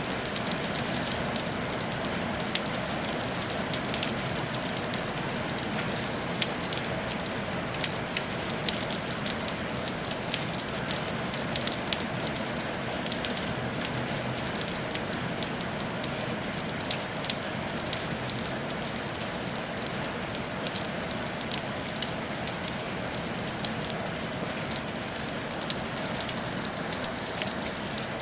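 Steady rain falling on a tile roof: an even hiss dotted with many sharp ticks of single drops.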